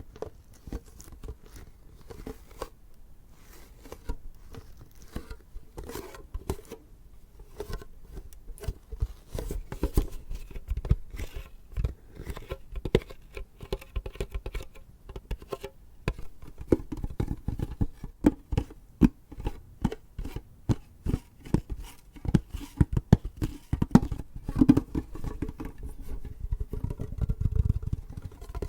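A tin container being tapped and scratched: a dense run of irregular light taps and scrapes.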